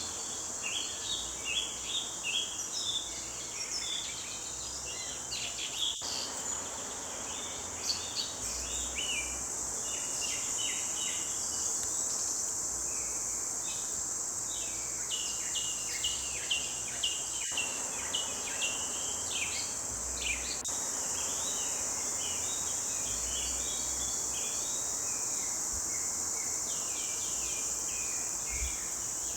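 Several songbirds chirping and singing in a morning forest chorus, many short quick notes overlapping, over a steady high-pitched insect drone.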